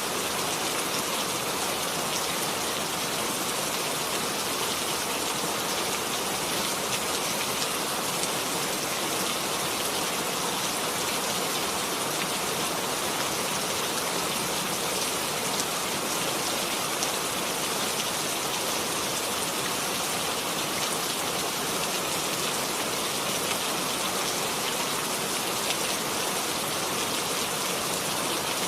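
Steady rain falling, a dense even hiss of many fine drops striking a surface.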